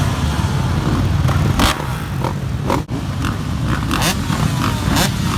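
A 125cc two-stroke motocross bike's engine running and changing pitch. Sharp knocks and gusts come through now and then, with a brief dropout about three seconds in.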